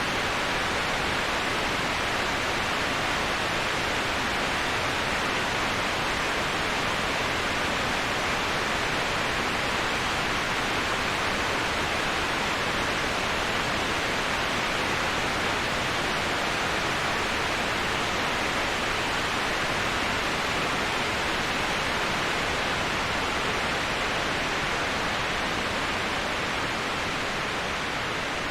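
Waterfall: a steady, even rush of falling water with no breaks, easing off slightly near the end.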